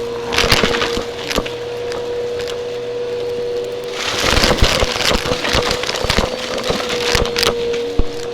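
Vacuum cleaner running with a steady motor whine, with bursts of crackling and rattling as debris is sucked up: briefly about half a second in, then for several seconds from about four seconds in.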